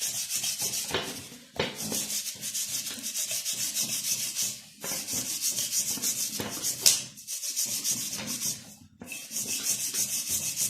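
Rapid back-and-forth scrubbing on a motorcycle rear wheel hub as compound and grime are rubbed off the metal. It comes in several runs of quick even strokes with short pauses between them, and one sharper scrape about two-thirds of the way through.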